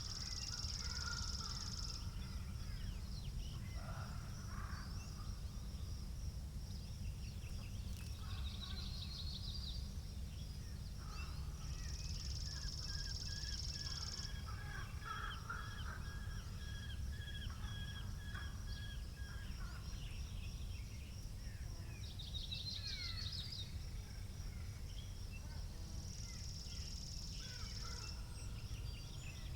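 Wind rumbling steadily on the microphone, with songbirds chirping and trilling on and off. A high, thin buzzing phrase comes in three times, about every fourteen seconds.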